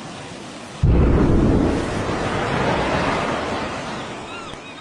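A sudden explosion boom about a second in, followed by a long low rumble that slowly fades: the blast of an atomic bomb explosion.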